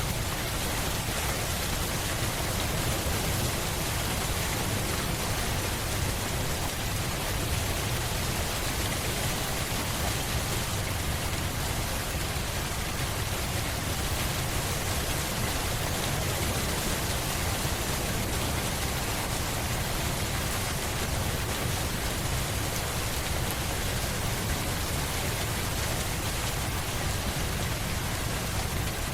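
Steady, unbroken rain, a dense even hiss of rainfall with a low rumble underneath and no single drops or thunder standing out.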